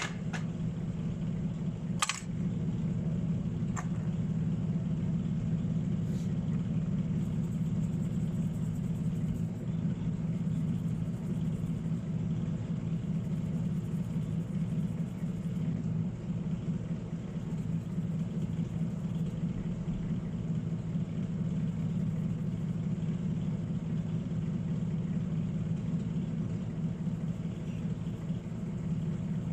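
Steady low hum of a small motor or fan running, with a sharp click about two seconds in and a couple of fainter ones after.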